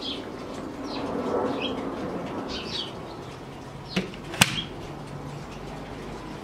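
Small birds chirping in short, quickly falling calls, with two sharp clicks about four seconds in, the second the loudest sound.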